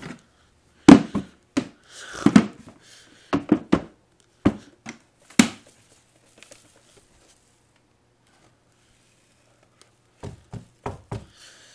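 Flower pots being handled and knocked as their dirt and debris are tipped out onto a carpet: a run of sharp knocks and rustles, a few seconds of quiet, then a few more knocks near the end.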